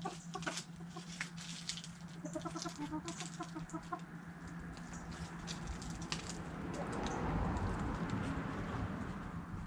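Backyard chickens clucking while pecking at food scraps, with many sharp pecking taps. A quick run of clucks comes about two to four seconds in, and a swell of rustling noise rises and fades in the second half.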